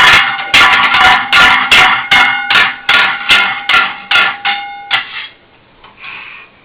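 A child banging a metal whisk, rapid clanging strikes about three a second with a ringing metallic tone, stopping about five seconds in.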